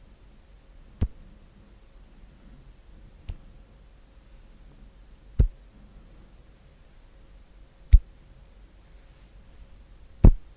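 Slow hand sounds: five single, sharp strikes of the hands, spaced about two to two and a half seconds apart, with little sound between them.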